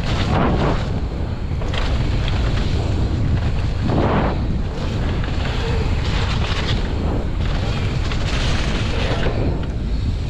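Wind buffeting the microphone and the steady rumble of a mountain bike's tyres and frame over a wet, muddy trail at speed, with brief louder rattles from bumps about half a second and four seconds in.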